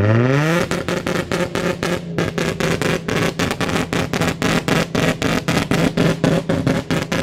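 Car engine revved up hard and then held at the rev limiter, the sound cutting in and out about five times a second.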